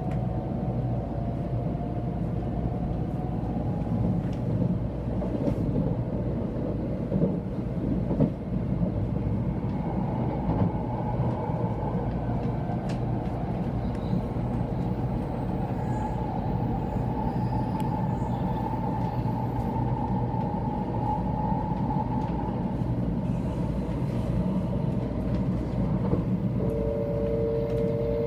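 Running noise of a 700 series Shinkansen heard from inside a passenger car: a steady low rumble with a few faint clicks. Over it is a thin whine, steady through the middle; near the end a pair of whining tones comes in, rising slightly in pitch.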